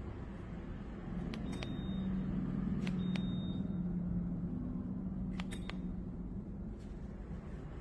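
Electric tower space heater running with a steady low hum that gets louder a little over a second in. Short high beeps, each with a click, sound about three times, as its control buttons are pressed.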